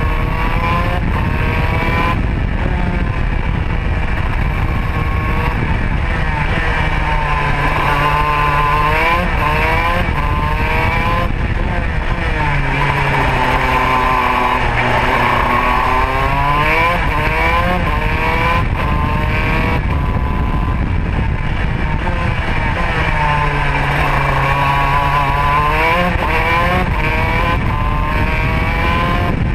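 Modena two-stroke kart engine heard onboard at racing speed, its revs falling into corners and climbing again on the straights, with a few sudden jumps in pitch. A constant rumble and rush of noise runs under it.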